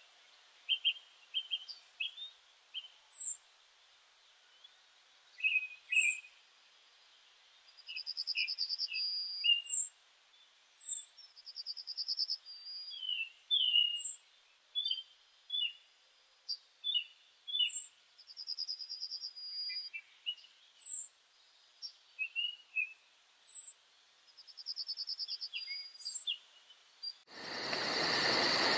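Several wild birds calling in a quiet woodland: a short high chirp repeated every couple of seconds, buzzy trills of about a second, and scattered lower chirps. Near the end a loud, steady hiss cuts in suddenly.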